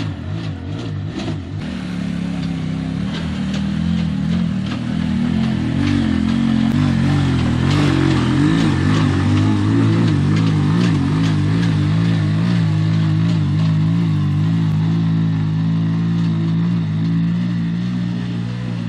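A 250 cc motor tricycle's engine pulling hard under a heavy load up a slope. It revs up over the first few seconds, then holds a steady pitch, with clicks and rattles over the top.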